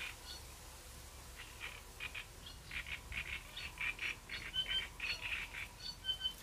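Small birds calling: short chattering notes with a few brief whistles, sparse at first and busier from about a second and a half in.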